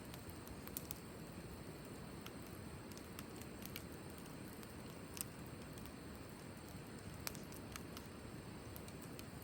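Wood fire burning: a faint, steady low rush with scattered sharp crackling pops at irregular intervals. The loudest pops come about five and seven seconds in.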